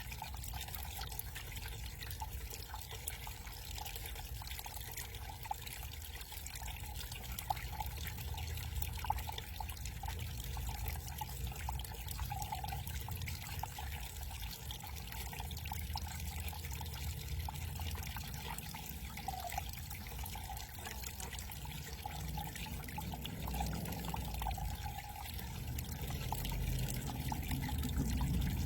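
Small backyard garden waterfall trickling and splashing steadily.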